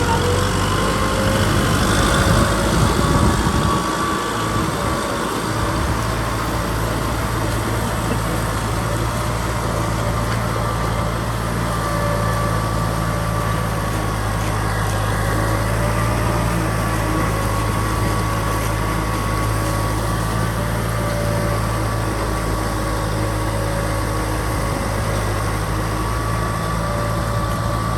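Kubota M6040 SU tractor's diesel engine running steadily under plowing load. There is a brief louder, rougher patch about three seconds in, and then the engine settles into an even drone.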